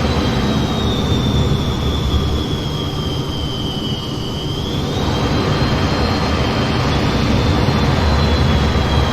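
F-15 jet engines running steadily in flight: a continuous low rumble under a high whine that sinks slightly in pitch about three to four seconds in and rises back about a second later.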